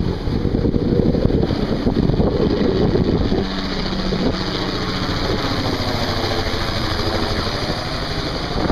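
Helicopter engine and rotor drone, with wind buffeting the microphone for the first few seconds, then settling to a steadier hum.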